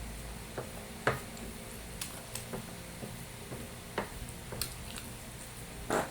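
Close-miked eating sounds: wet chewing and mouth smacks as short, irregular clicks, the loudest about one second and six seconds in.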